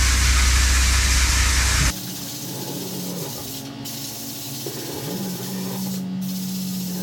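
A loud steady hiss of rushing air over a deep hum cuts off abruptly about two seconds in. A quieter steady low hum carries on after it.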